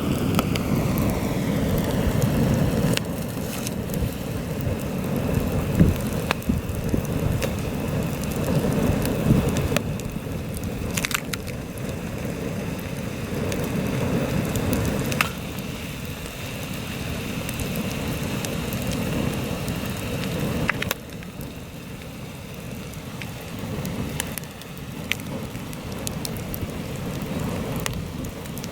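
Campfire burning in heavy wind: gusts rumble on the microphone under scattered sharp crackles and pops from the burning wood. The wind eases suddenly about three-quarters of the way through.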